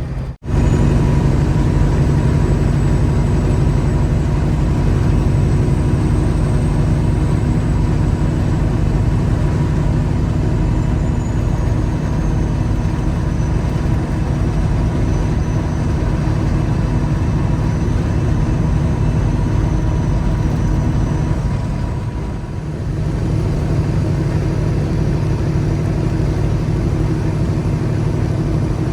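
Peterbilt 359 dump truck running down the road, a steady engine drone with road noise. The sound dips briefly about three-quarters of the way through, then comes back to the same level.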